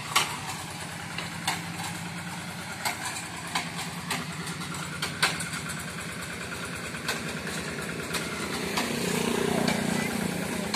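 Two-wheel hand tractor's diesel engine running steadily under load while working a dry rice field, with scattered sharp knocks. The engine grows louder about nine seconds in.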